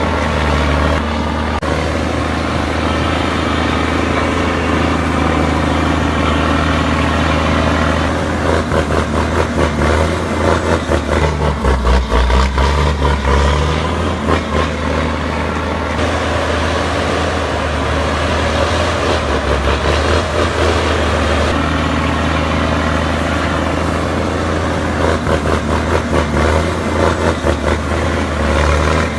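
Heavy truck's engine running under load as it hauls logs through mud. It runs steadily, with a stretch of rapid pulsing in the middle and again near the end.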